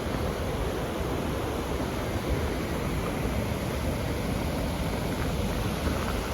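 Steady rushing of flowing water, an even wash of noise with no breaks.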